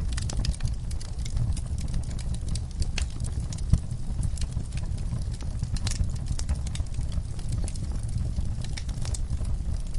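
Wood fire crackling in a fireplace: a steady low rumble of the flames with irregular sharp pops and snaps, one louder pop near the middle.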